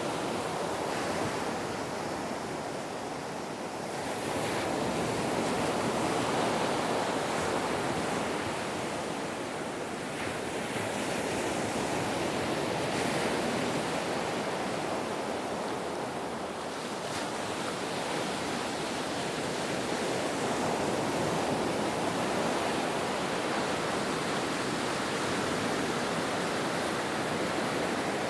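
Ocean surf washing in a continuous hiss that swells and eases gently every several seconds.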